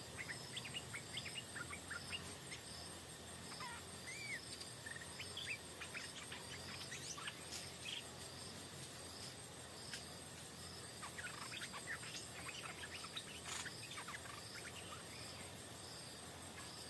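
Stripe-throated bulbuls chirping in short, scattered calls, with bunches of quick notes about seven seconds in and again around eleven to fourteen seconds. Under them, insects keep up a trill that pulses about once a second and a steady high whine.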